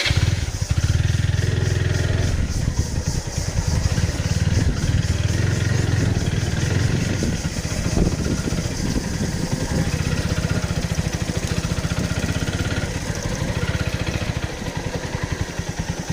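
Single-cylinder engine of a TVS Apache RTR 4V motorcycle running steadily as it is ridden along.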